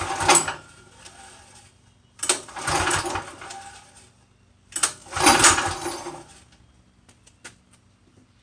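Small go-kart engine being pull-started three times, each yank of the recoil cord turning it over briefly without it catching.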